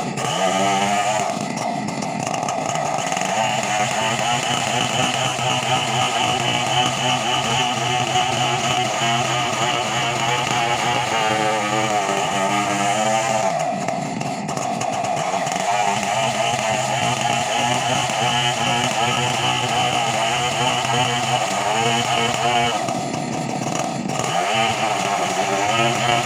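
Chainsaw engine running steadily at high revs, its pitch sagging and picking up again about a second in, around halfway, and near the end.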